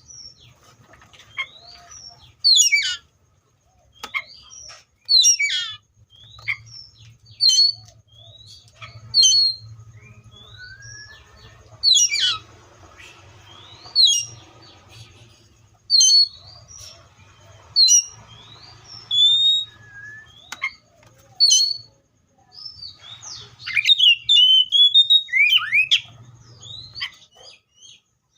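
Seychelles magpie-robin singing: loud, clear whistled phrases, many sweeping steeply down in pitch, repeated every second or two, with a faster run of notes near the end.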